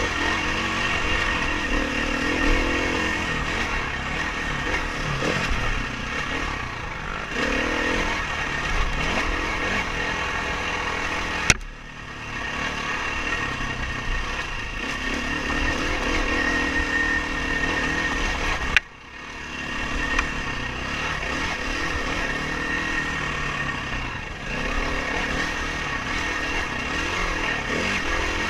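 Dirt bike engine revving up and down as it is ridden over uneven terrain. Twice the sound breaks with a sharp click and a brief drop in level.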